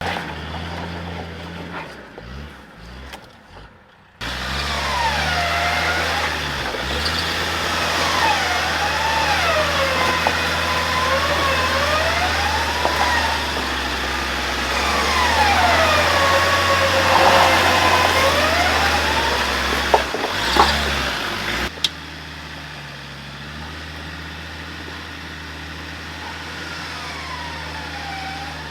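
Off-road 4WD engine running steadily, joined by a high whine that rises and falls in pitch for much of the time, then it cuts off suddenly to a quieter steady engine sound near the end.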